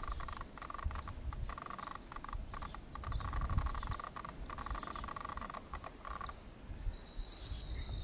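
Songbird calls: a few short, high, downslurred chip notes scattered through, and a buzzy high trill near the end, over a steady buzzing hum and a low rumble.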